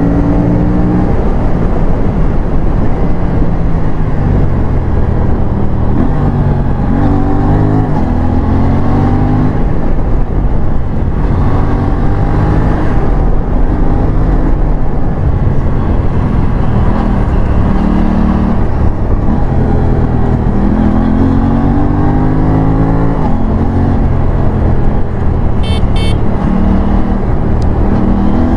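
Aprilia RS457's parallel-twin engine under hard acceleration, its pitch repeatedly climbing and then dropping back as it shifts through the gears. Two brief high clicks near the end.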